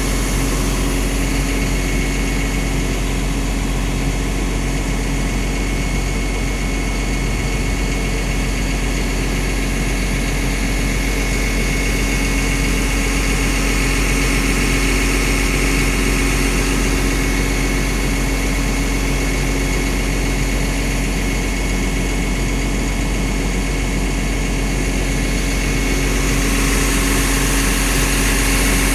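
Diesel engine of a Liugong CLG922E crawler excavator (Cummins) running steadily, with a deep rumble and a thin, steady high whine over it. It gets slightly louder near the end.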